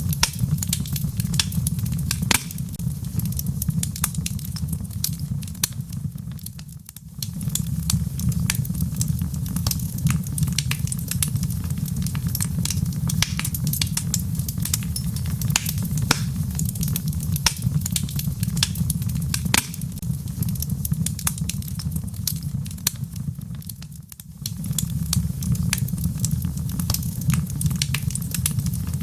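Wood fire burning in a fireplace: a steady low rumble of flames with frequent sharp crackles and pops from the logs. The whole sound briefly fades and comes back twice, about seven seconds in and again about five seconds before the end.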